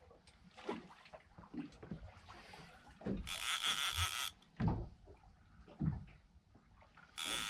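Fishing reel whirring in a short burst of about a second, about three seconds in, as line is worked on a fish hooked on the bottom, with a few dull knocks around it.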